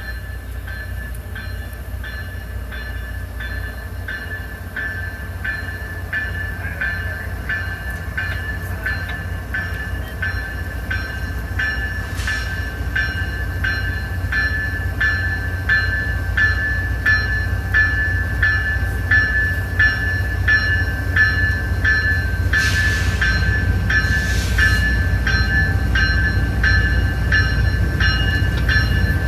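A train rumbling as it comes closer, growing steadily louder, with a bell ringing at an even pace of about two strokes a second. There are two brief hisses near the end.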